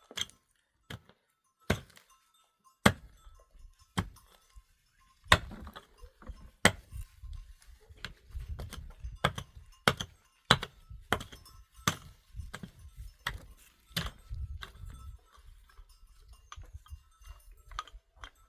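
Repeated sharp blows of a hand tool, irregular but about one a second, with low scraping rumbles between many of the strikes.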